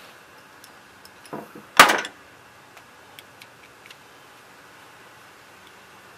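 Hand work on a lawnmower's carburetor and fuel system: a softer knock just over a second in, then a loud, short clatter at about two seconds, followed by a few light clicks.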